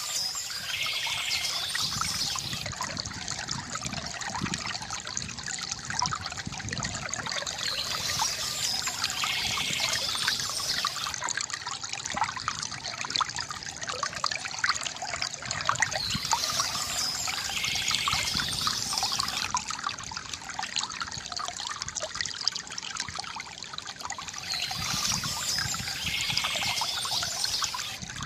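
Water from a bamboo fountain trickling and splashing steadily into a basin.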